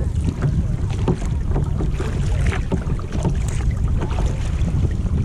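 Wind buffeting the microphone in a steady low rumble, with small splashes of water lapping around a kayak.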